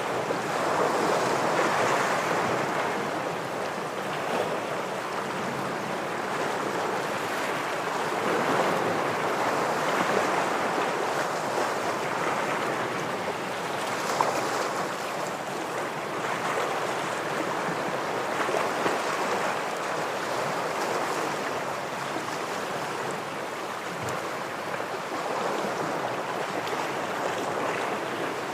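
Ocean waves washing against shoreline rocks, a steady hiss of surf that swells and eases every few seconds.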